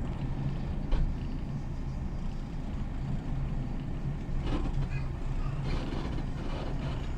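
Train running with a steady low drone, with a single sharp knock about a second in.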